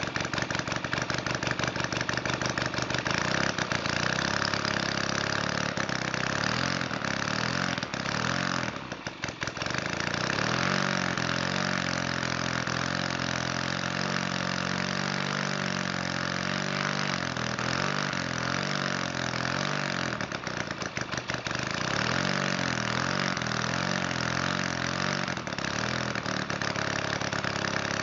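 Valach 170cc model aircraft engine running rich on its needle settings and a 25:1 fuel-oil mix, its speed rising and falling rather than holding steady. The sound dips briefly twice, about nine seconds and about twenty-one seconds in.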